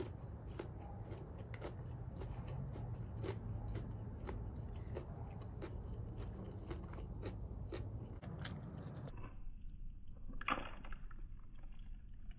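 A person chewing food close to the microphone, with frequent small wet clicks and smacks of the mouth and of fingers on food. A louder click comes about ten and a half seconds in.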